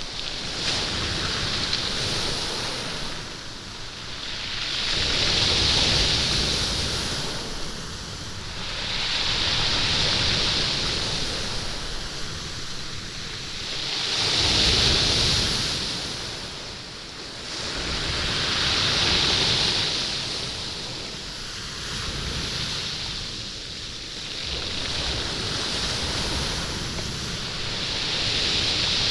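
Waves washing up and back over a stone beach, the stones rattling and rolling in the surf. Each wave swells and ebbs, about one every four to five seconds.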